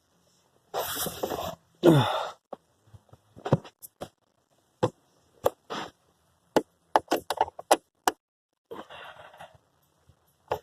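Heavy breathy exhales and a short falling groan from the man straining at the work, with scattered sharp clicks and taps of hand tools and bolts against metal in between.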